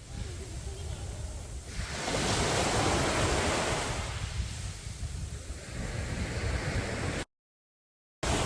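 Sea waves breaking and washing up a beach in light drizzle, a steady rushing hiss with one wave swelling loudest about two to four seconds in. Near the end the sound cuts off abruptly to dead silence for about a second, then returns.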